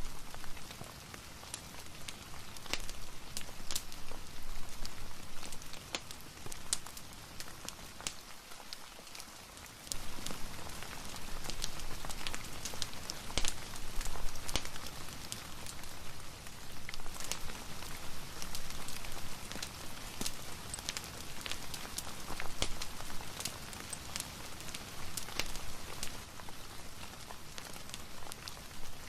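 Steady rain pattering, mixed with a fireplace's small crackles and pops. The hiss thins briefly about eight seconds in, then fills out again.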